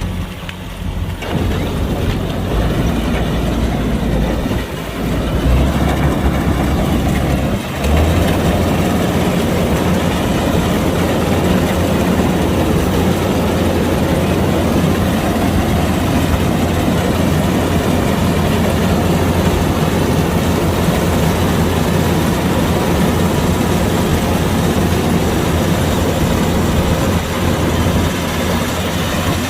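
Kubota DC-105X combine harvester running steadily, its diesel engine and threshing machinery making a loud, even drone.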